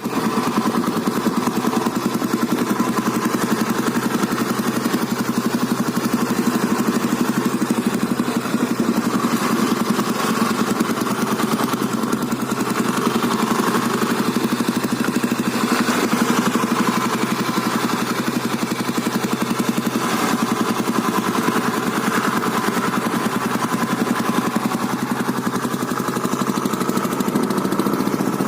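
Old Royal Enfield Bullet motorcycle's single-cylinder engine idling steadily.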